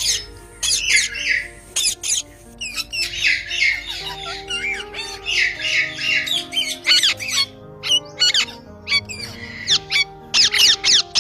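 A parrot calling, with many short, high-pitched squawks and chirps in quick clusters, over background music with held notes.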